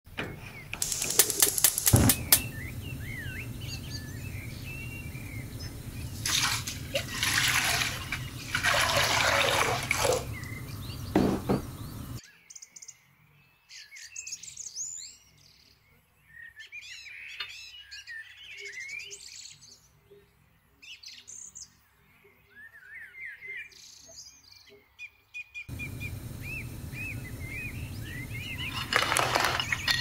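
Small birds chirping and twittering throughout, in quick rising and falling calls. Under them, a rushing water noise from a frying pan of water on a gas stove comes and goes, with louder bursts in the first half and a sharp knock about two seconds in. The water noise drops out for about thirteen seconds in the middle.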